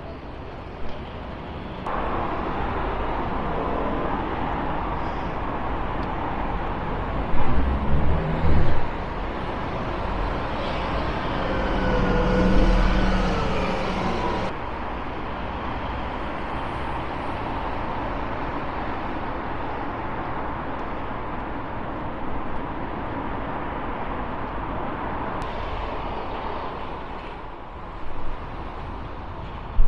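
Town street traffic: a steady wash of road noise, with a vehicle passing loudly near the middle, its engine tone rising and falling.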